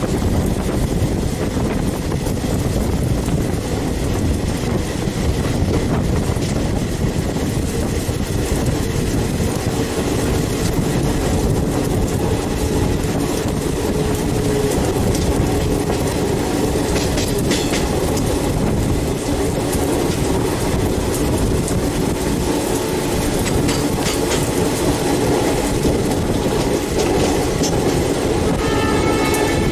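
Diesel-hauled passenger train heard from an open coach door: a steady rumble of wheels on rails and rushing air, with the clickety-clack of wheels over rail joints. A high squeal joins near the end as the train curves.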